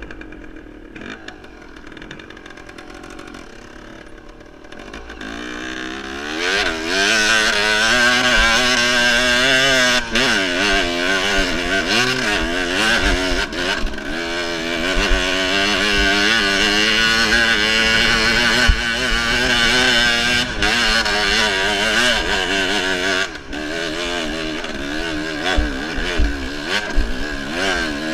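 Enduro motorcycle engine running under throttle, its pitch rising and falling over and over as the rider opens and closes the throttle. It is quieter for the first few seconds, then loud from about five seconds in, easing slightly near the end.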